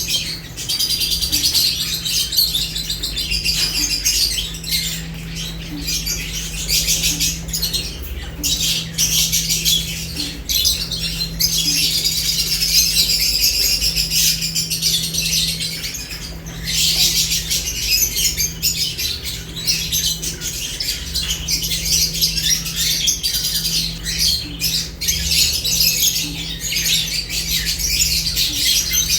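Lovebirds chattering and squawking in a dense, unbroken stream of high chirps.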